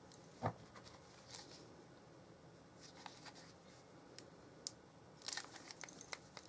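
Paper and card being handled on a craft table: a soft thump about half a second in, then scattered light rustles and clicks, and a quick run of crisp clicks and rustles about five seconds in.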